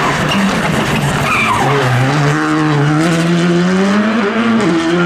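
Rally car engine accelerating hard: its pitch climbs steadily for a couple of seconds, then a quick gear change near the end and the engine pulls on at a steady higher note.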